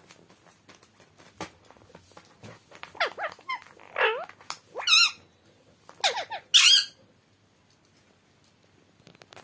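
Pet parrot calling: a run of squeaky, swooping and warbling calls lasting about four seconds, starting about three seconds in, after a few faint ticks.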